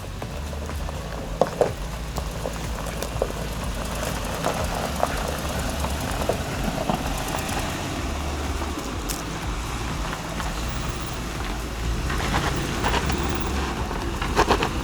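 Off-road SUV driving with a steady low engine and road rumble, with scattered knocks and rattles.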